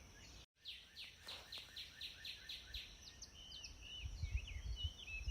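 Faint bird chirping: a run of short, evenly repeated downward chirps, about four a second, followed by a mix of varied rising and falling calls, with a faint low rumble near the end.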